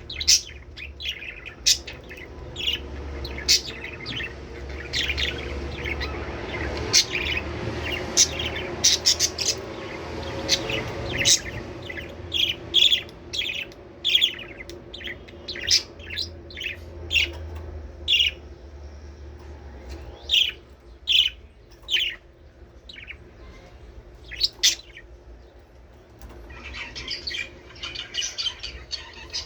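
Budgerigars chirping, many short sharp calls in irregular succession, turning into a fast continuous chatter near the end.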